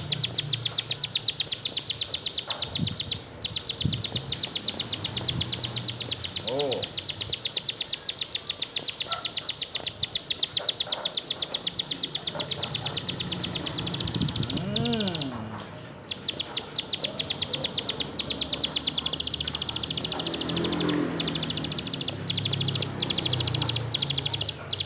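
Plain prinia (ciblek sawah) song: a rapid, unbroken run of sharp, high ticking notes with brief breaks, and a couple of short lower calls.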